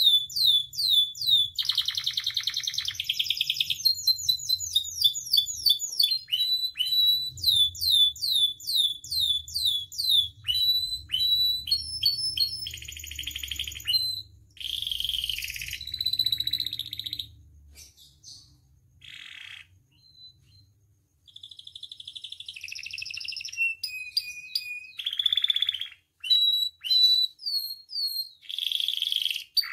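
Domestic canary singing a long, varied song: runs of quick, repeated downward-sweeping whistled notes, about three or four a second, alternating with buzzy rattling trills. The song drops almost to quiet for a few seconds past the middle, then picks up again.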